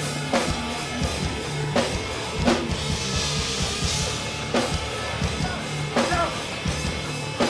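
Hardcore band playing live through an instrumental passage: a drum kit pounding out a steady beat over sustained bass notes, with no vocals.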